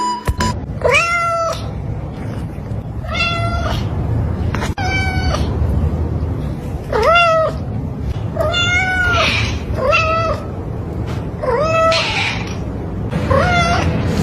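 Domestic cat meowing repeatedly, about eight meows a second or two apart, each rising and then falling in pitch, over a steady low rumble.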